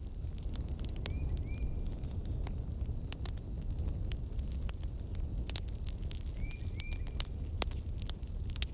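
Wood fire in a fireplace crackling, with many sharp irregular pops over a steady low rumble. Short chirps come in pairs twice, about a second in and again near the end.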